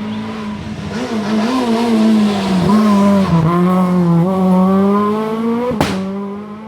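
Rally car engine at full load on a gravel-free tarmac stage? no: Rally car engine passing at speed, getting louder to a peak in the middle; its pitch drops about three and a half seconds in as it shifts and then climbs again, with a single sharp bang near the end.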